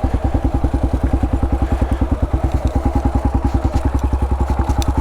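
Yamaha adventure motorcycle's engine running at low revs with an even, regular pulsing of about twelve beats a second, as the bike is eased over rough ground.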